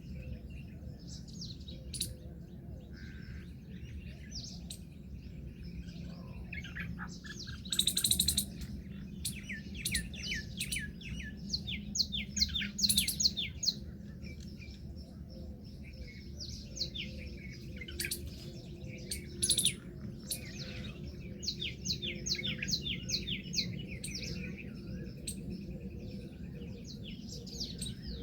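Birds chirping and calling throughout, with fast runs of repeated high notes. The loudest come about 8 seconds in, around 12–13 seconds in and near 20 seconds in, over a steady low hum.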